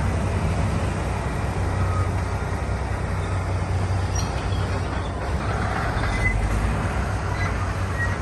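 Diesel engine of heavy earthmoving equipment running steadily under work, a constant low engine note.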